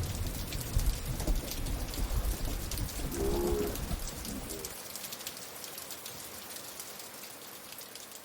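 Rain falling, a steady hiss dotted with many small drop ticks, over a low rumble that drops away about five seconds in. A brief pitched sound comes a little past three seconds in, and the rain fades out gradually.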